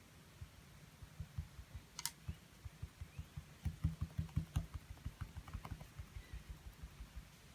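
Paint brush tapping and dabbing against a small canvas, a quick run of soft thumps several times a second that is busiest and loudest in the middle, with one sharp click about two seconds in.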